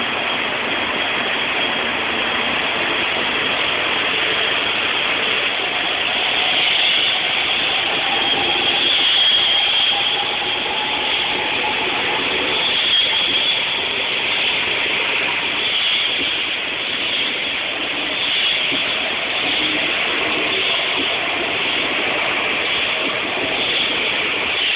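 E4 series double-decker Shinkansen pulling out of the station, its cars rolling past close by as a steady rushing noise. A whine rises in pitch several seconds in as the train gathers speed.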